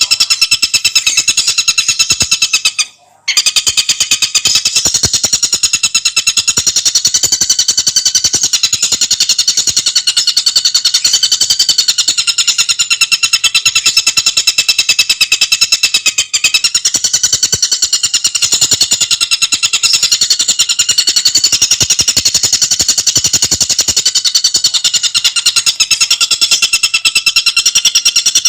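Tengkek buto bird singing a fast, shrill rattling trill of rapidly repeated high notes that runs on without pause, apart from a brief break about three seconds in.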